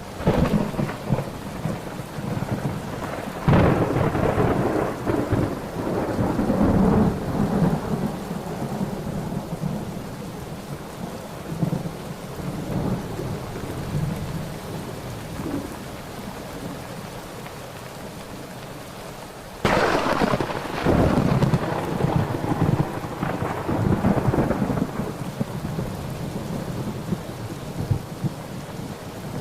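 Thunderstorm: steady rain with thunder rolling in. Rumbles break in at the start, about four seconds in and again about twenty seconds in, each swelling and then fading over several seconds.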